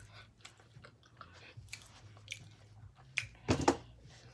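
A person biting into and chewing food close to the microphone, with a string of small clicks and a louder burst of sound about three and a half seconds in.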